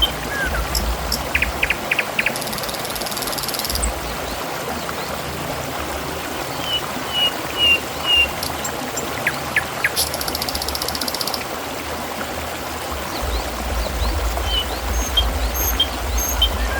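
Water trickling and splashing steadily, with scattered short high chirps and clicks over it and a rapid high buzzing twice.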